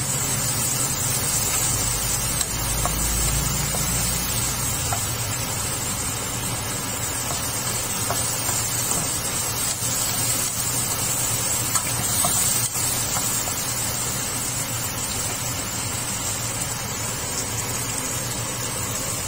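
Onions and tomatoes sizzling steadily in hot oil in a pan, stirred with a wooden spatula, over a steady low hum.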